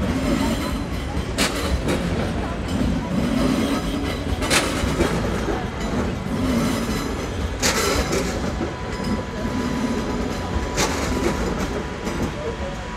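National Express electric multiple-unit train rolling slowly past: a steady rumble with a sharp clack about every three seconds as the wheels cross the track, and a thin steady whine in the second half.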